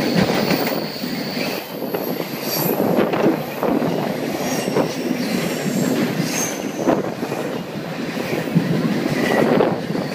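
A freight train of open hopper cars rolls past close by: a steady rumble of steel wheels on rail with brief high-pitched wheel squeals now and then and clicks as the wheels pass over the rail joints.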